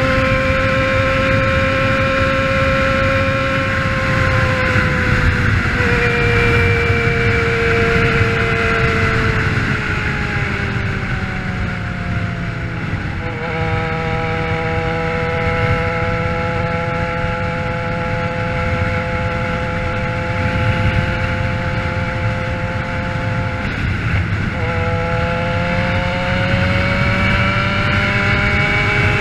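Motorcycle engine running under way, over a low wind rumble. Its note holds steady, sags slowly, jumps up about halfway through, then climbs again near the end.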